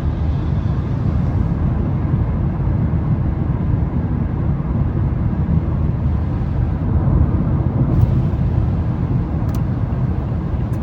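Steady low rumble of tyre, road and engine noise heard inside a Mazda 3's cabin as it cruises on wet pavement, with two faint ticks near the end.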